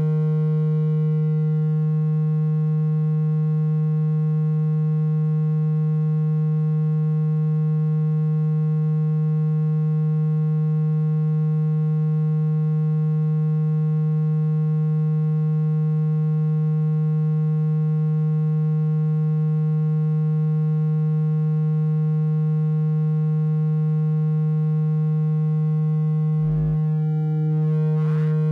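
Steady low-pitched electronic tone, the kind of vibration sound played through a phone speaker to shake water out of it. It holds one pitch and level throughout, with a brief break and a low thump near the end.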